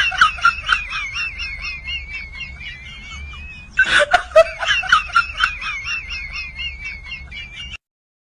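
A high-pitched, rapid giggling laugh sound effect, played twice in a row, the second time starting about four seconds in; it cuts off abruptly near the end.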